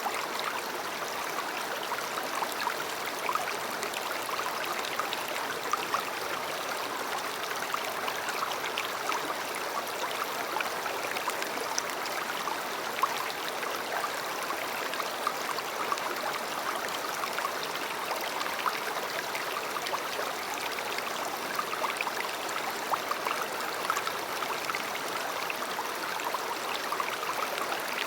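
River water flowing: a steady, even babble of running water.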